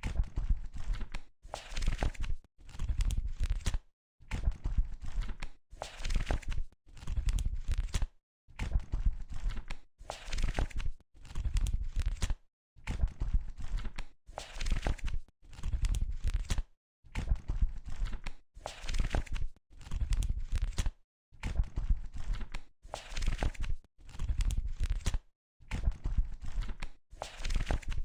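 Pages of a paper book being flipped, a rustling swish about every two seconds. The same short recording repeats with brief dead-silent gaps between repeats.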